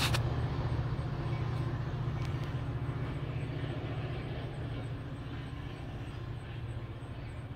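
Metra diesel-hauled commuter train pulling away, its low engine rumble fading steadily as it recedes. A short knock comes right at the start.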